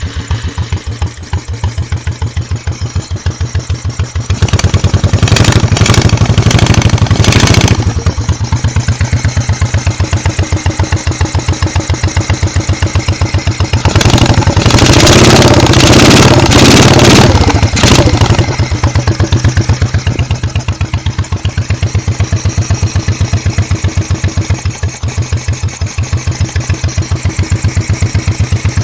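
1986 Honda Shadow 1100's V-twin engine running with a steady pulse, revved up twice for a few seconds each, about four and fourteen seconds in. The rear cylinder is misfiring and puffing back out through its carburetor, which the owner believes to be cam timing.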